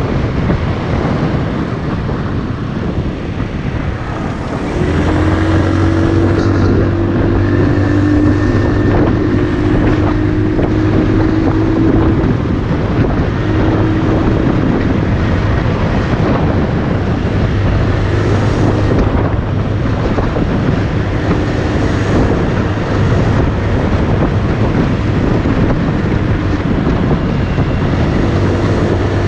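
Motorcycle engine running at a steady pitch under heavy wind noise on the microphone; the engine note comes in louder about five seconds in and holds steady.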